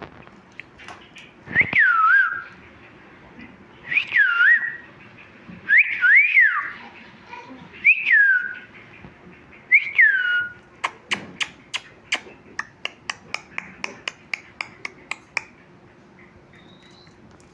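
Pet parrot giving five loud swooping whistles about two seconds apart, each rising sharply then falling away. After them comes a quick run of sharp clicks, about three or four a second, that stops a couple of seconds before the end.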